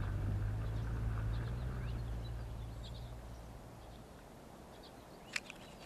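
Faint bird chirps over a low steady hum that fades away over the first few seconds, with one sharp click about five seconds in.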